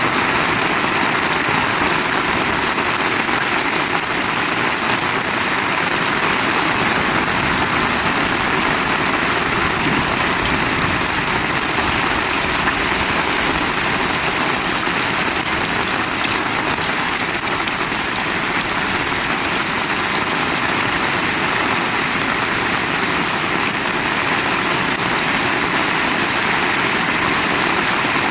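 Heavy rain falling hard and steadily, a dense, even hiss of drops with no let-up.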